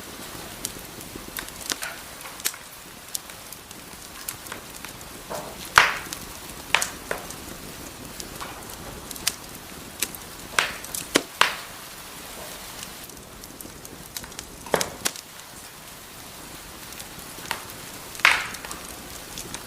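Wood fire burning in a fireplace, crackling: a steady soft hiss under irregular sharp pops and snaps, a few of them much louder than the rest.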